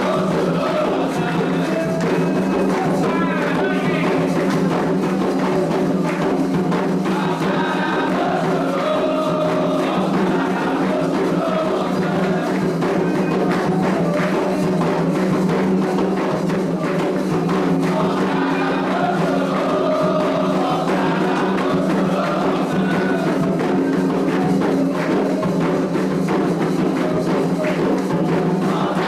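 A group of voices singing a Candomblé ritual chant over steady hand percussion.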